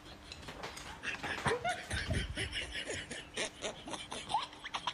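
Short snickering laughs from a woman, with small clicks and clatter of chopsticks and tableware.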